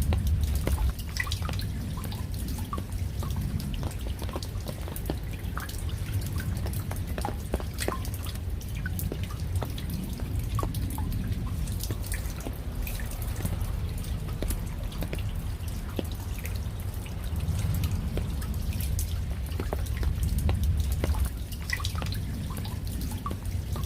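Rain falling, with many separate drops ticking over a steady low rumble.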